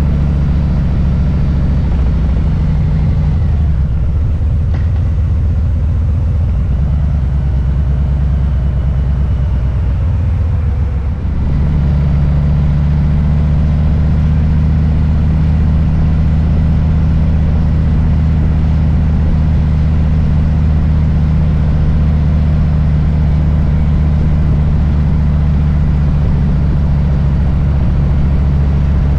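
Harley-Davidson Low Rider S Milwaukee-Eight V-twin running through its exhaust, a deep steady rumble. The engine note wavers in the first third, dips briefly about eleven seconds in, then settles into an even, unchanging note.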